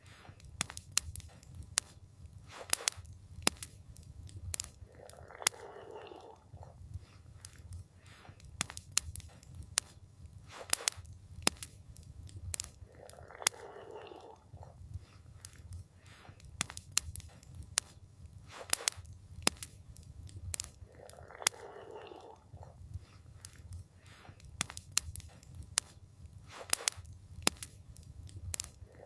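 Campfire crackling: irregular sharp pops and snaps over a low steady rumble, with a soft rushing sound that comes back about every eight seconds.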